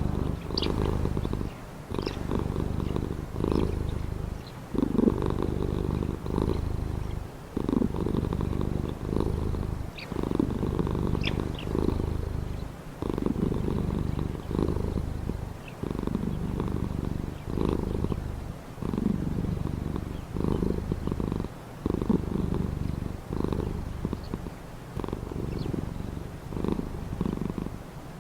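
Domestic cat purring close up, a steady low rumble that swells and dips with each breath, about one breath a second. Faint, brief bird chirps come through now and then.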